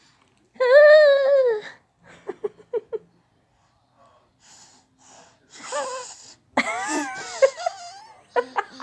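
A baby squealing and making breathy, wheezy noises. There is a high-pitched squeal about half a second in, then short huffs, a breathy hissing stretch, and a second, longer squeal after about six and a half seconds.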